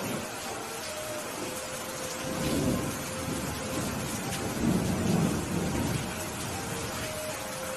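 Steady rain with low rolling thunder that swells twice, loudest about five seconds in.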